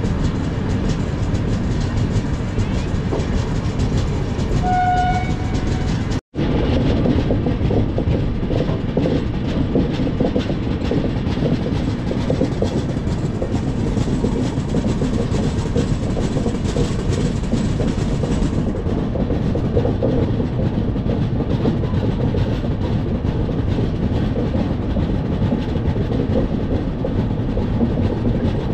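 Express passenger train running on the line, a steady loud rumble of wheels and carriages. About five seconds in, a horn sounds once, briefly.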